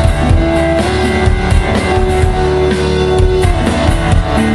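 Live rock band playing an instrumental passage between vocal lines: distorted electric guitar chords held over a steady drum kit beat, with bass underneath.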